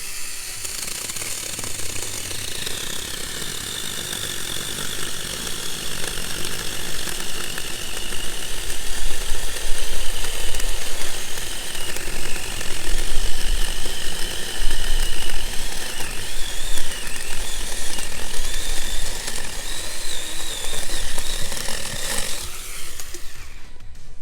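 Saker cordless mini chainsaw running and cutting through a small poplar trunk about two to three inches thick. Its whine drops in pitch a couple of seconds in, wavers through the cut and stops suddenly near the end, with wind rumbling on the microphone.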